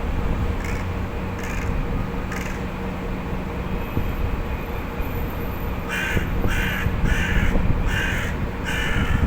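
Crow cawing: three faint harsh caws early on, then a run of five louder caws in quick succession near the end. A steady low rumble sits underneath.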